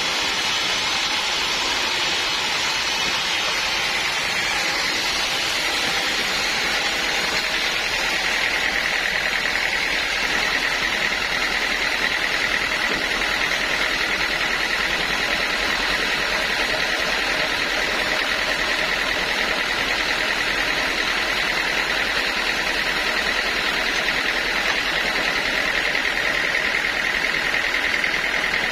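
Band sawmill running steadily: a high whine over a constant rushing noise, the whine dropping in pitch about five seconds in and then holding.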